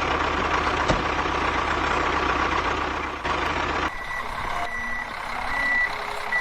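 Small electric motor and gearing of a homemade mini tractor model whirring steadily, cutting off abruptly near the end, followed by a series of short high electronic beeps repeating less than a second apart, like a reversing beeper.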